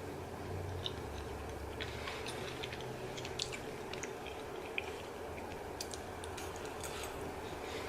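A person chewing food with small wet clicks at irregular intervals, over a faint steady hum.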